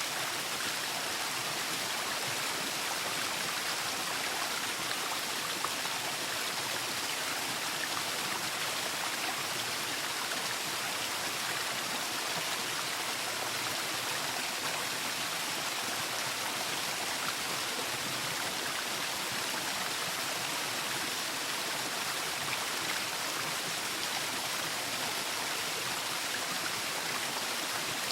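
Waterfall: falling water rushing in a steady, even hiss with no pauses or changes.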